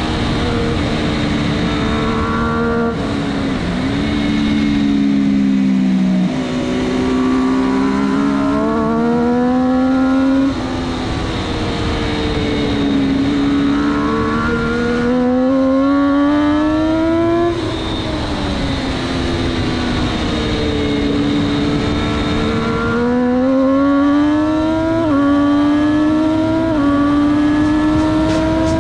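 Onboard sound of a 600cc superstock sportbike engine at race pace. The pitch climbs under throttle and drops sharply at each gear change or roll-off for the corners, with quick upshifts twice near the end. Steady wind rush lies under the engine.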